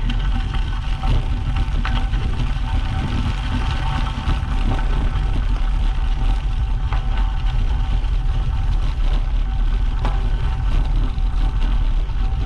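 Wind rumbling on the microphone of a moving road bike, with the tyres crackling over gravel in scattered small clicks.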